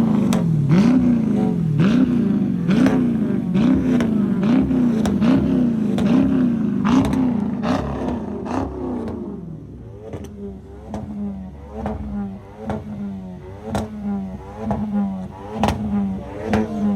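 A car engine is revved over and over in quick blips, about once a second, with sharp pops and cracks from the exhaust. About nine seconds in, the revving gets quieter and turns into a choppier pattern, still with intermittent pops.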